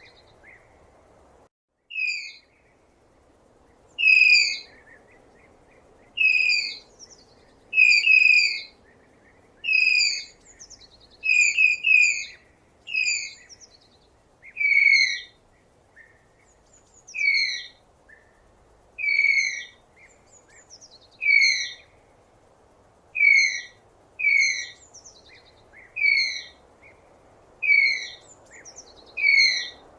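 Tapir giving a long series of short, shrill whistling squeals, each sliding slightly down in pitch, about one every second or so, over a faint steady background hiss.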